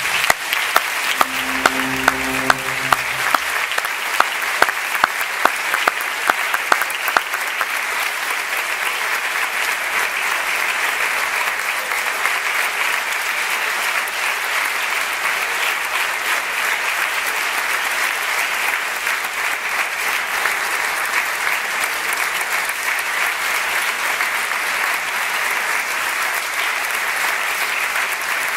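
Theatre audience applauding steadily. A held note of the recorded orchestra fades out in the first few seconds, and a few sharp, close claps stand out during the first several seconds.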